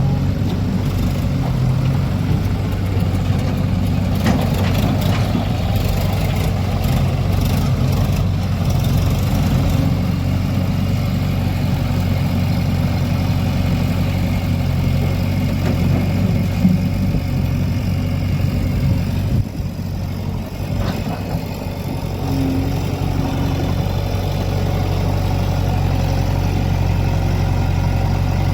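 Heavy diesel machinery engine running steadily, with scattered clattering in the first several seconds and a brief drop in level about two-thirds of the way through.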